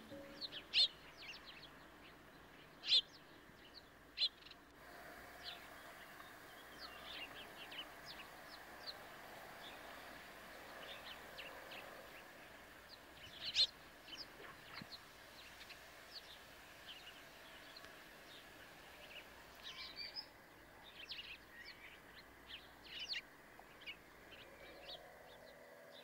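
Birds chirping: many short, high calls scattered irregularly over a faint steady hiss.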